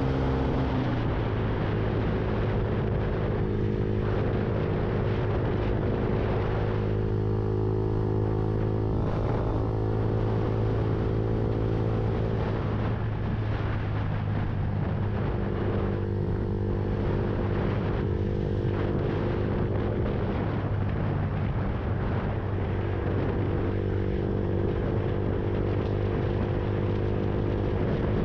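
Lexmoto Viper motorcycle engine running at a steady cruising speed, its note holding an even pitch as the throttle eases off and opens again a few times, with steady wind rush from riding.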